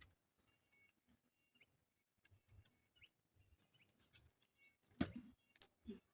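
Near quiet, with faint short bird chirps here and there and a few small clicks. A louder knock comes about five seconds in.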